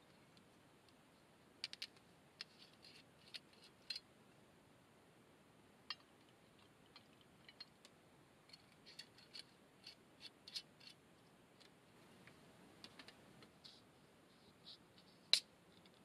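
Faint, irregular small clicks and ticks, scattered and uneven, with the loudest single click near the end.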